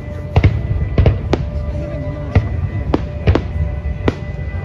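Aerial fireworks shells bursting in quick succession, about ten sharp bangs over a low rumble, with music playing underneath.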